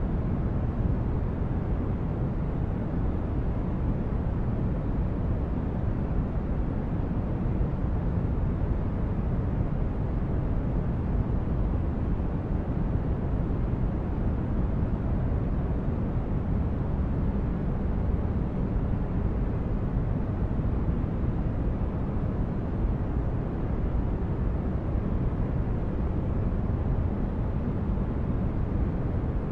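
Continuous white-noise track: a steady, even rush of noise, heavier in the low end, with no changes.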